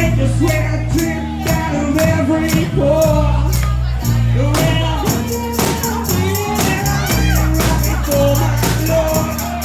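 Live band playing with a singer, over a steady percussion beat and a sustained bass line.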